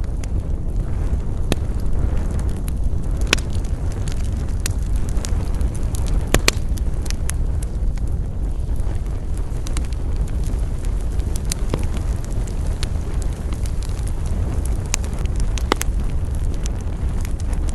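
Campfire burning, with a steady low rumble under scattered sharp crackles and pops from the burning wood.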